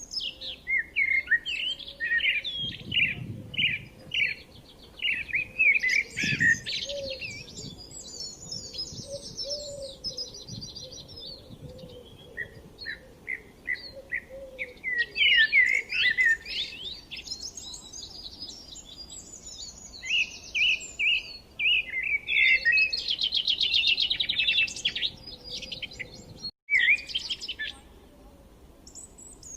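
Birds chirping and singing: a steady stream of short, quick chirps and warbled phrases, with a dense rapid trill a little past the middle. The sound cuts out for an instant near the end.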